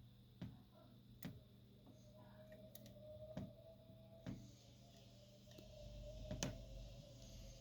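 Near silence with about five faint, sharp clicks, spread irregularly, over a low room hum. No clear canary song is heard.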